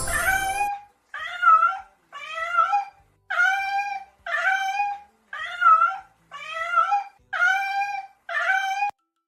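A high-pitched animal call repeated about nine times, roughly once a second. Each call bends up and down in pitch.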